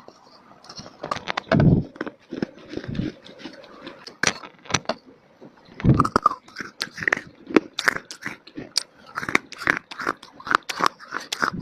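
Close-up crunching and chewing of dry clay: brittle crunches and bites, sparse at first, then coming thick and fast from about halfway through.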